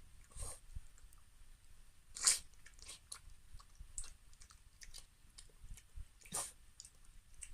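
Maltese dog eating, crunching and chewing its food in scattered bites, with the loudest crunch about two seconds in and another near the end.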